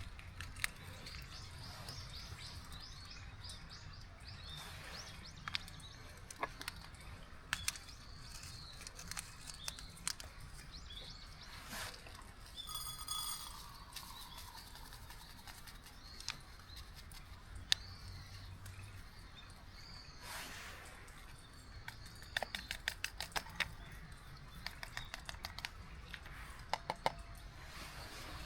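Small birds chirping and calling, with one harsher call about halfway through. Scattered sharp clicks and ticks come in between, in a quick run near the end.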